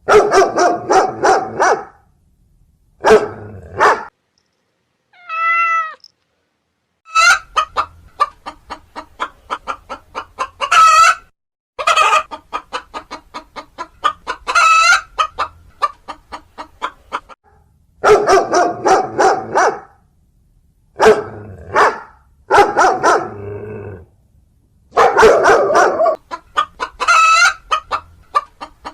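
Chickens: hens clucking and cackling in quick runs of repeated calls, with rooster crowing, in several short bursts separated by brief silences.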